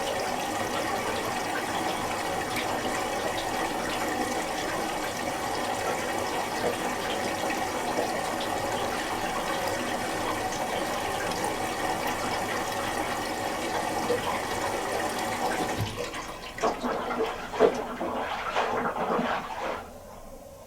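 Miele Little Giant PWM507 washing machine taking in water for the first rinse of a woollens cycle: a steady rush of water into the drum that stops about three quarters of the way through, followed by a few seconds of uneven splashing and sloshing before it goes quieter.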